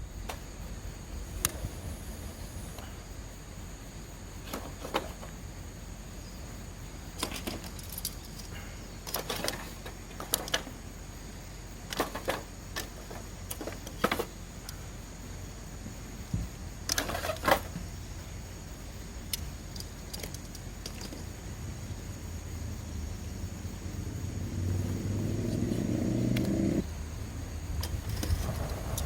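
Wood fire crackling, with irregular sharp snaps and pops over a steady low rush. Near the end a louder low rushing sound builds for a few seconds, then cuts off abruptly.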